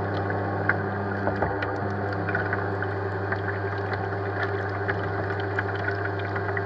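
Small RC bait boat's electric motors running with a steady hum, water splashing and lapping lightly against the hull.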